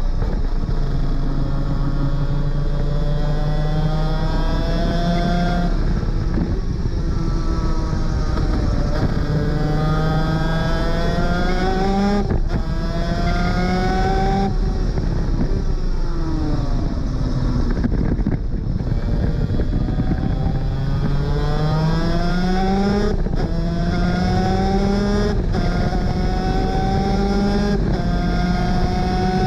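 Superkart 250's two-stroke engine at full throttle through the gears: the pitch climbs and drops back at each upshift. In the middle it falls away under braking and downshifts, then it climbs through the gears again.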